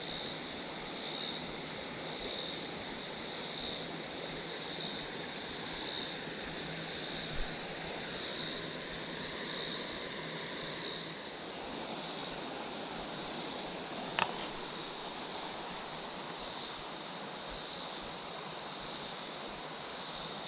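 Creek water running over rocks, a steady rushing hiss, under a high, pulsing drone of summer insects. A single short click sounds about two-thirds of the way through.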